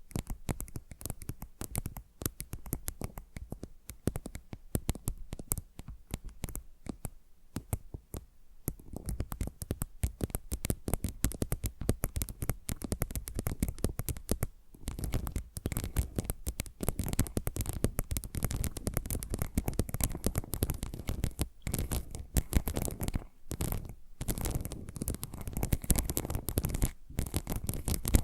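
Rapid fingernail scratching and tapping on ASMR trigger objects, two recordings layered left and right, a dense stream of fast clicks and scratches that grows busier and louder after about nine seconds.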